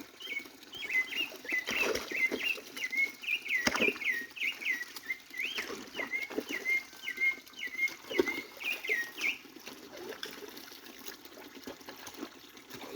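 A bird singing a quick run of short, clear chirping notes over and over, stopping about three-quarters of the way through, with a few sharp knocks in between.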